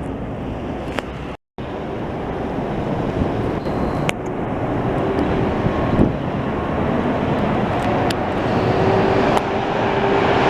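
Heavy plow truck approaching, its engine and tyre noise growing steadily louder, with wind on the microphone. The sound cuts out completely for a moment about one and a half seconds in, and a faint steady whine comes in near the end.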